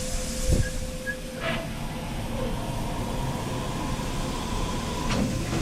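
Steam-hauled railway train running along the line: a steady low rumble of the train in motion, broken by a few short knocks.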